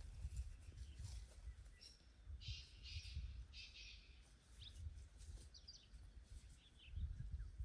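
Birds chirping in a few short bursts about two to four seconds in, then a few single chirps, over a faint low rumble.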